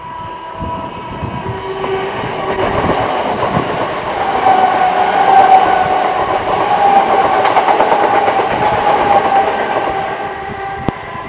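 Greater Anglia electric multiple unit passing at speed: wheel-on-rail noise builds, peaks as the train goes by and fades as it runs away, with a steady whine under the loudest part. A single sharp click near the end.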